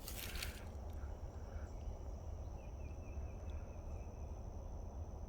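Insects trilling: a steady high, thin buzz throughout, with a shorter buzzy trill joining for about a second midway, over a low wind rumble on the microphone. There is a brief rustle right at the start.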